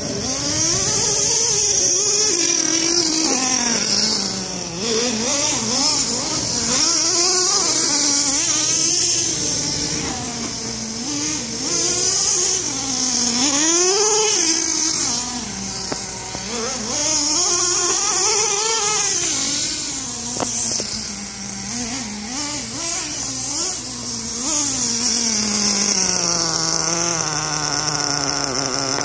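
Nitro RC truck's two-stroke glow engine, an upgraded Vertex Racing .25, running with its pitch rising and falling over and over as the throttle is opened and let off. Near the end it settles into a steadier, lower note that slowly drops.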